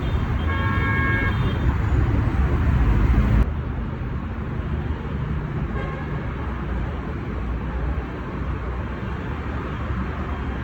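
Road traffic with a vehicle horn sounding once for about a second and a half near the start. A little over three seconds in, the sound cuts abruptly to quieter, steady traffic noise.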